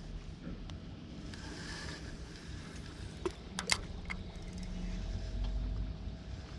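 An engine running with a steady low hum that swells toward the end, with a few sharp clicks a little past halfway.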